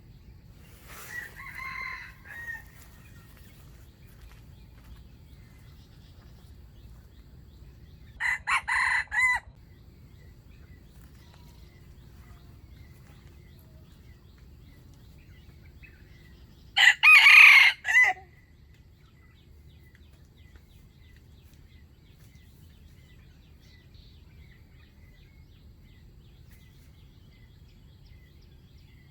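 A wild junglefowl rooster crowing three times with long gaps between: a fainter crow about a second in, a louder one about eight seconds in, and the loudest about seventeen seconds in.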